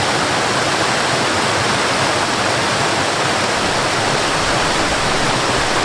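Waterfall: a steady, dense rush of falling water, even and unbroken.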